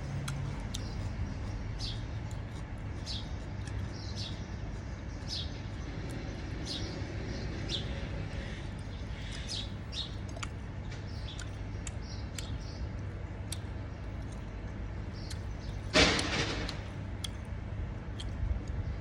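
A bird chirping in short high notes about once a second over a steady low hum, with one sudden loud noise about 16 seconds in that fades over a second.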